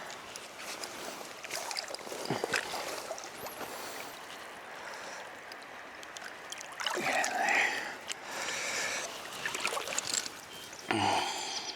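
Flowing river water, with a few knocks and two louder bursts of splashing about seven and eight and a half seconds in as a small salmon is played at the surface on the line.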